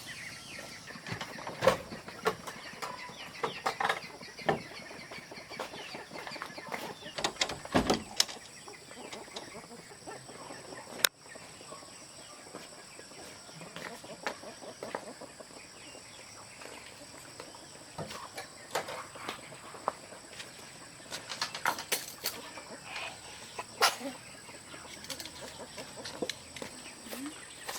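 Chickens clucking, with sharp knocks and clatters every few seconds.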